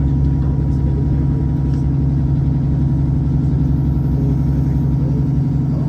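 Diesel train's underfloor engine running steadily, with a constant low hum, heard from inside the carriage.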